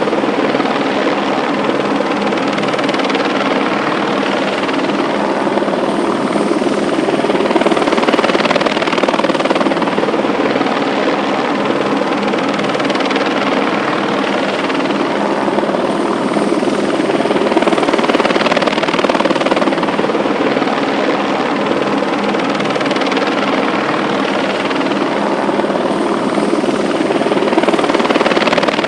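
Steady, loud mechanical drone with a few steady low tones running through it, swelling slightly every several seconds.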